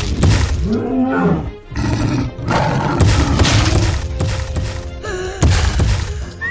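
Cartoon soundtrack: background music with a beast's roars and several crashing impacts.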